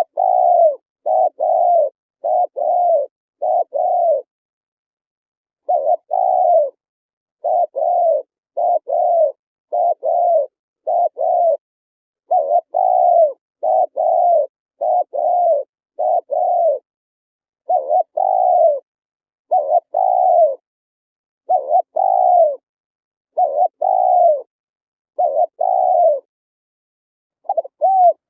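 Spotted dove cooing: a long series of low coos, each falling slightly in pitch, delivered in runs of two to four notes with short pauses between runs. Nothing else is heard between the notes.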